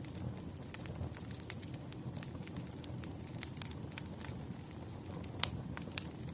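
Wood fire crackling: a steady low rumble of burning logs with frequent irregular snaps and pops, two of them louder about five and a half and six seconds in.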